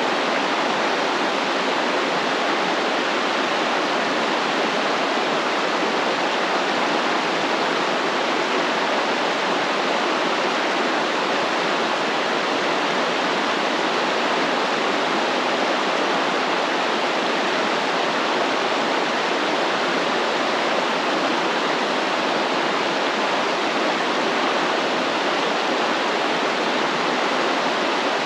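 A stream flowing: a steady, even rush of running water with no breaks or changes.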